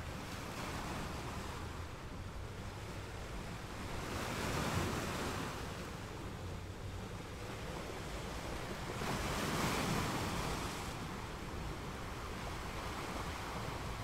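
Sea waves breaking and washing ashore over a steady low rumble, the surf swelling louder twice, about a third of the way through and again about two thirds through.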